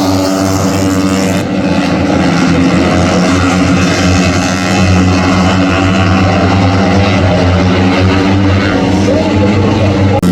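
MotoGP racing motorcycle engines running hard at high revs, a loud steady engine note, with an abrupt change in the sound about a second and a half in.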